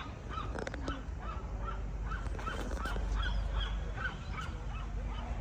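Geese honking over and over, short calls about three a second, over a low rumble of wind or crowd noise.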